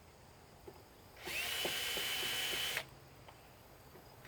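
Cordless power drill spinning up with a rising whine, running steadily for about a second and a half, then stopping: backing out a screw while taking apart an electric lawn mower.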